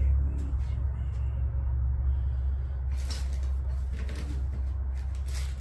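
Metal hand tools, sockets and wrenches, clinking a few times as they are picked up and tried, over a steady low rumble.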